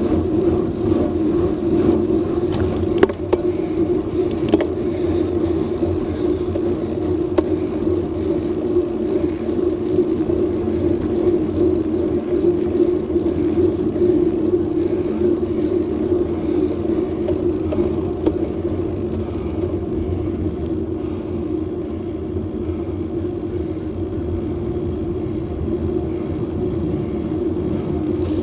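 Steady rumble of a bicycle rolling on the road, with wind on an action camera's microphone, and two sharp clicks a few seconds in.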